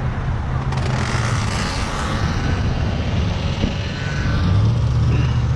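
Motor vehicle engine running steadily with a low hum, with a louder rush of noise between about one and two seconds in.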